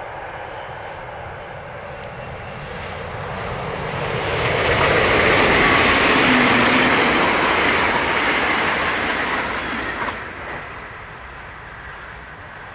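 NS VIRM double-deck electric multiple unit passing at speed: its rolling noise builds over a few seconds, peaks as the carriages go by, and fades about ten seconds in.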